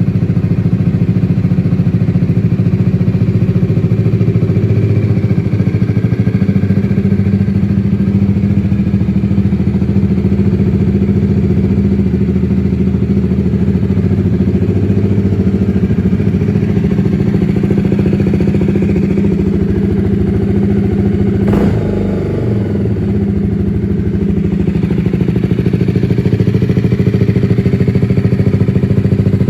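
BMW G310R's single-cylinder engine running steadily at idle, with one sharp click about two-thirds of the way through, after which it briefly runs a little quieter.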